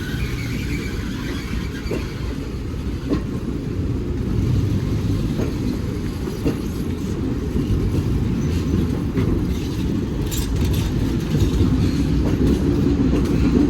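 Train rolling along the track: a steady low rumble, with occasional clicks of the wheels over rail joints, growing slightly louder toward the end.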